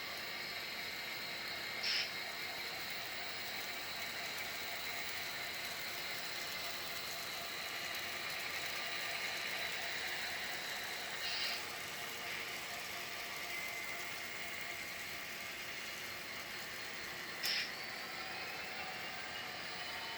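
A train rolling past, a steady metallic running noise with thin high tones over it. Three short sharp metallic sounds come about 2, 11 and 17 seconds in.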